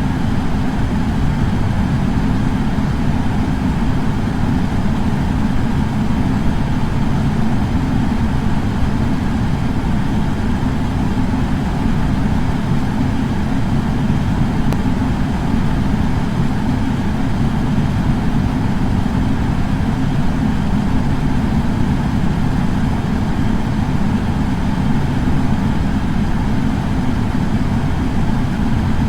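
Air purifier fan running steadily, a constant airflow hum with most of its weight in the low end.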